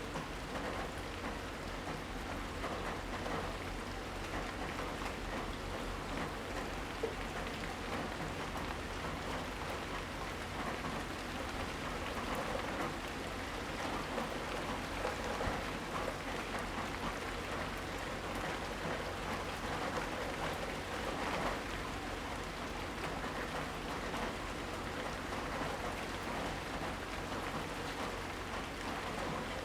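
Steady rain falling during a rainstorm, an even wash of noise with many small drop ticks and no thunder.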